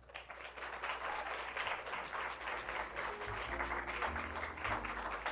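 Audience applauding, starting suddenly and keeping up. About three seconds in, instrumental music enters underneath with low bass notes and held tones.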